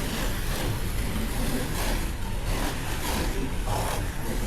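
Several slot cars racing round a track, their small electric motors whining steadily, the sound swelling again and again as cars pass.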